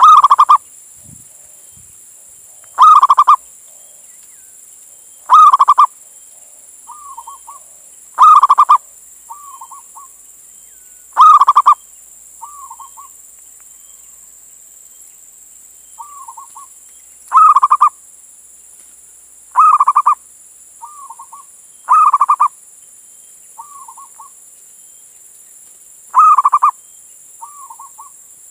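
Male zebra dove (perkutut) cooing: loud half-second bursts of rapid coos every two to three seconds, each followed by a softer, shorter note, with a pause of a few seconds about halfway through. A faint steady high hiss runs underneath.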